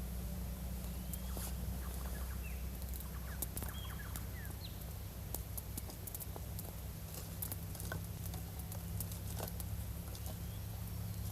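Birds calling with short scattered chirps, among many sharp little clicks and crackles, over a steady low hum.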